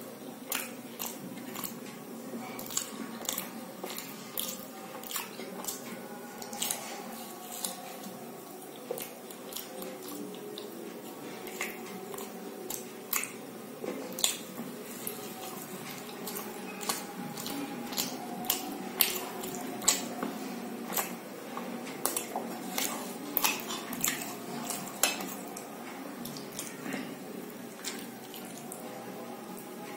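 Close-miked chewing of aloo paratha: wet mouth smacks and clicks, irregular and sharp, repeating through the whole stretch over a faint steady background.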